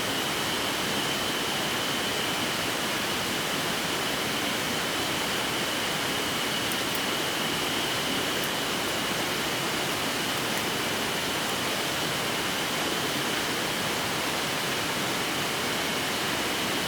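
Mountain headwater stream rushing steadily, an even unbroken wash of running water.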